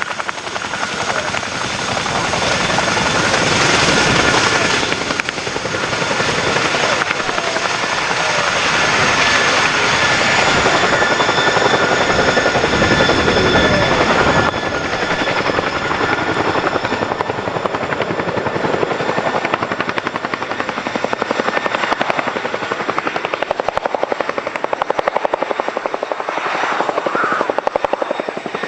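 Boeing CH-47 Chinook helicopter running: a rapid, steady chop from the rotor blades over a high turbine whine.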